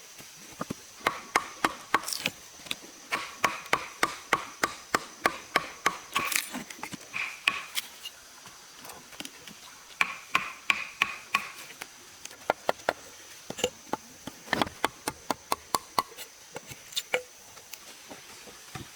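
Rapid series of sharp chopping or hammering strikes, about three to four a second, in bursts with short pauses; some strikes ring briefly. A steady high insect drone runs behind.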